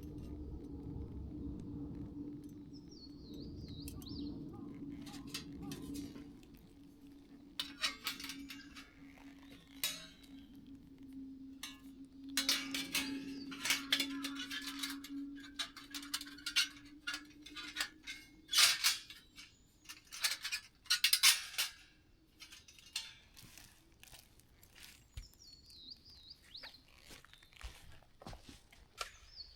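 Metal camp cookware and utensils being handled, with many sharp clinks and knocks through the middle. A steady low hum runs under the first two-thirds and stops, and a bird sings briefly near the start and again near the end.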